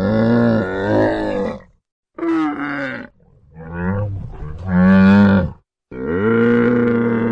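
Cattle mooing: four long, low calls one after another, separated by abrupt short gaps, the last one still going on.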